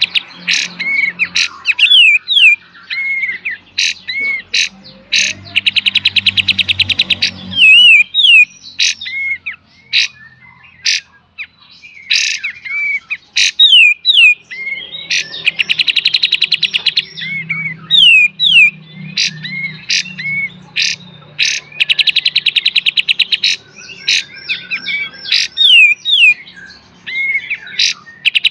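Kapas tembak songbird singing its full 'beset' and 'tembak' song. Fast buzzing rattles of one to two seconds alternate again and again with sharp, loud single shot-like notes and short sliding whistles.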